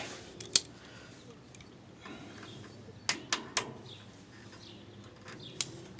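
A few sharp small metal clicks from hand tools and carburetor parts being handled: one about half a second in, three in quick succession around three seconds, and one near the end.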